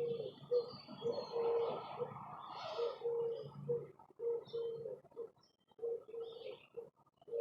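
A dove cooing over and over in short low notes, with small birds chirping faintly higher up and a short rustling noise about two seconds in.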